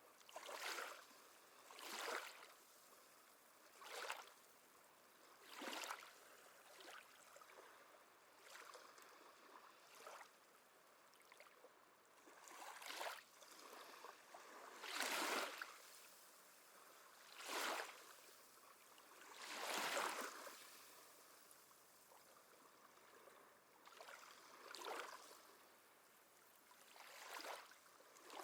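Small waves lapping at the shore: a faint wash with short splashes every two seconds or so, the strongest about halfway through and again about two-thirds of the way through.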